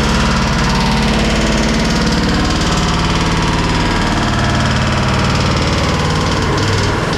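A loud engine running steadily at a constant speed, with a low, even hum, dipping briefly near the end.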